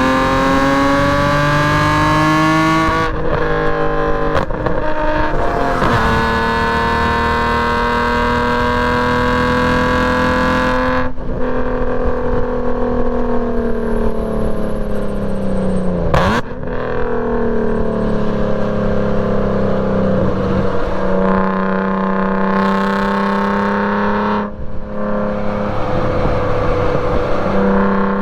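BMW E46 M3's inline-six with straight-piped exhaust, lapping a race track under hard acceleration. The pitch climbs and drops sharply at each gear change, and the engine eases off while braking before pulling through the gears again.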